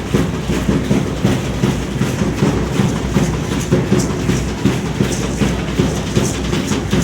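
Aztec dance drumming: a dense, pounding beat with rattling over it.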